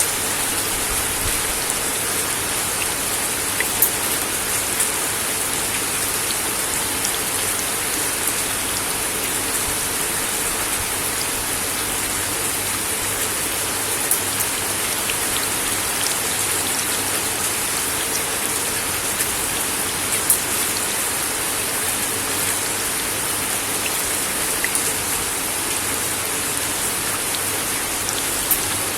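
Steady rain falling on a wooden deck, an even hiss with scattered louder drop ticks.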